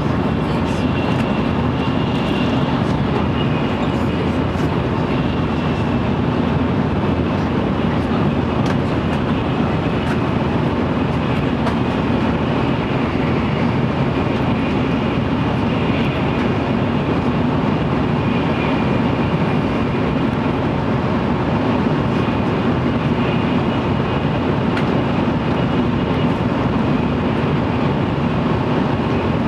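Cabin running noise of a JR Central N700 series shinkansen at speed, heard inside a motor car: a steady rumble and rush from wheels, track and air, with a faint high whine that swells and fades a few times.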